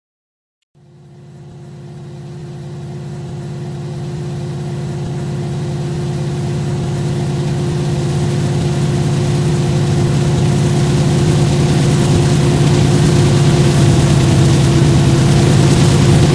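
Diesel freight locomotive running on the approach, its engine drone steady in pitch and growing steadily louder. The sound cuts in abruptly about a second in.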